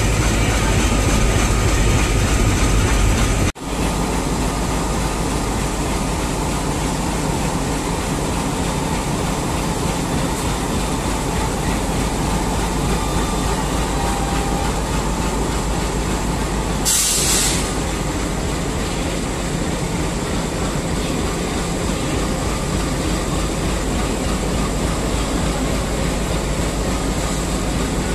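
Diesel locomotive engine running with a heavy low rumble for the first few seconds, then cut off abruptly. After that comes steady train and station rumble, with a short loud burst of hiss about 17 seconds in.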